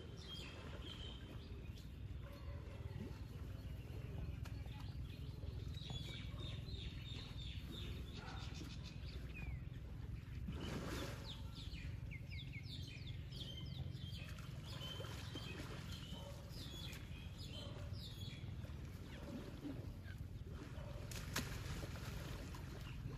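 Outdoor ambience of small birds chirping, over a steady low rumble. About halfway through a brief, louder rushing noise rises over it.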